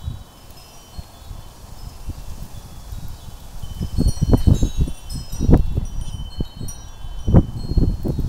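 Wind chimes ringing with many high, overlapping tones in gusty wind. Wind buffets the microphone in loud low gusts that grow stronger from about four seconds in.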